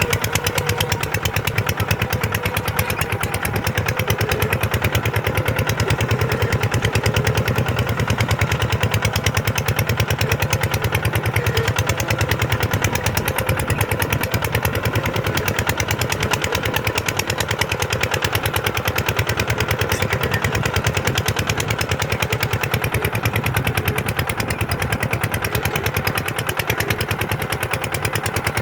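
Kubota tractor's diesel engine running steadily while plowing, a fast, even firing beat with no change in speed.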